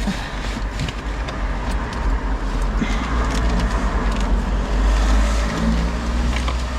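Road traffic going by, a steady rumble that swells about four seconds in, with light clicks of small items being handled.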